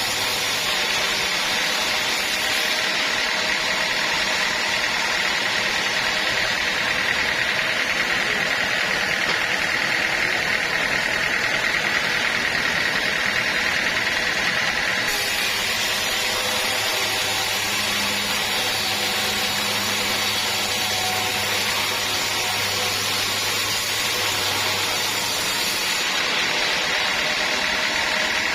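Sawmill machinery running steadily as it saws a teak log, a continuous mechanical drone with a high hiss.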